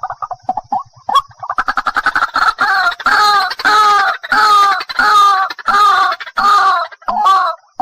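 White-breasted waterhen calling. A fast, stuttering run of short notes builds into a loud series of repeated 'ruak' calls, about two a second.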